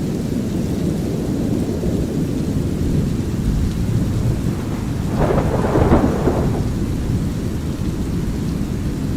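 A steady low rumble of brown noise with light rain, and a thunderclap about five seconds in that crackles for over a second before fading back into the rumble.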